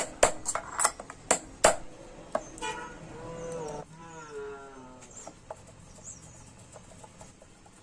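Metal parts and tools clinking sharply as they are handled, about ten clinks in the first two seconds. Midway comes a drawn-out wavering call that falls away, followed by faint high chirps.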